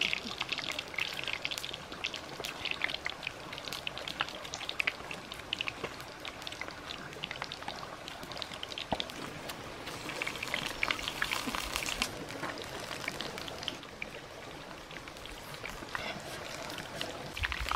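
Steady rain falling, a continuous hiss thick with small drips and patters.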